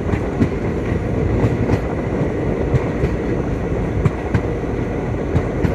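Passenger train in motion, heard from inside a coach: a steady rumble with irregular sharp clicks and knocks from the wheels over the rail joints.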